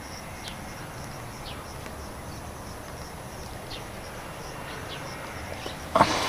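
Scattered short, high bird chirps over a steady outdoor background. Near the end there is one sudden loud rustle.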